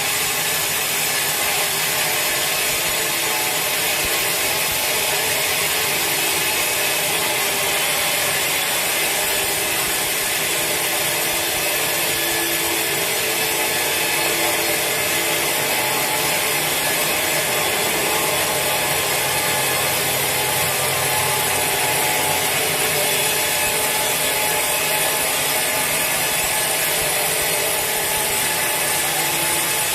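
Sawmill saw cutting through a large teak log, a steady unbroken sawing noise without pauses.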